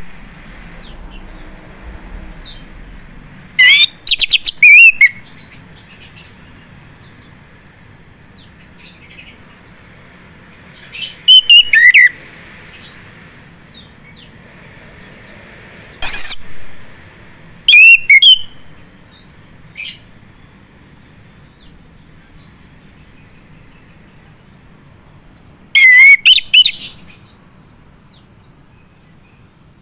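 Male chestnut-capped thrush (anis kembang) singing in loud, short bursts of sliding whistled notes, with quiet pauses of a few seconds between the phrases.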